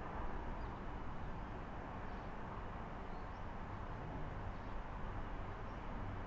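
Steady outdoor background noise with a low rumble, and a few faint, short high bird chirps.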